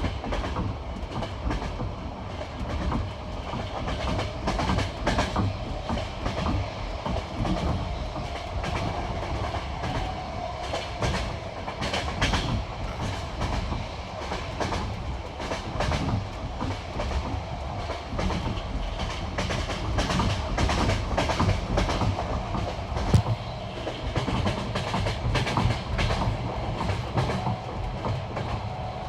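Passenger train wheels clicking over the rail joints of jointed track, a steady clickety-clack over the rumble of the moving carriage, with one sharper knock near the end.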